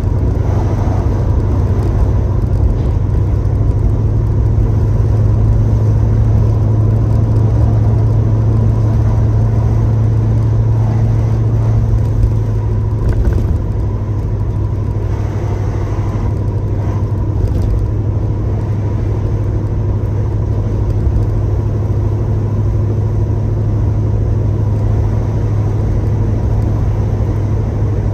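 1966 Chevrolet Chevelle's engine running at a steady cruise with road noise, heard from inside the cabin: a steady low drone that eases slightly about halfway through.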